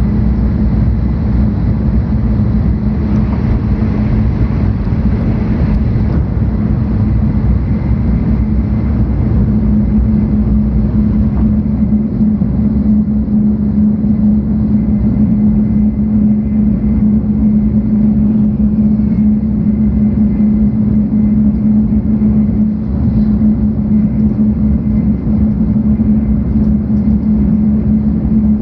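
Interior running noise of a 700-series Shinkansen between stations, heard from inside the passenger car: a loud, steady low rumble with a constant hum over it.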